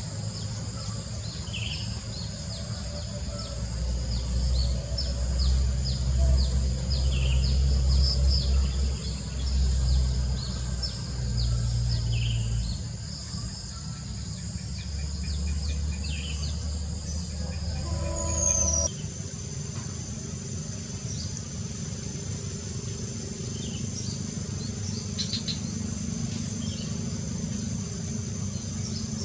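Countryside ambience: a steady high insect drone with short, repeated bird chirps every couple of seconds. Under it a low rumble runs for most of the first two-thirds and stops abruptly at a change in the sound near two-thirds of the way through.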